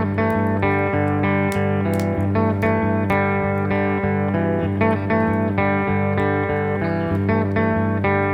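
Instrumental guitar passage in a slow, hypnotic desert-blues style: plucked guitar notes repeating over a sustained low drone, with no singing.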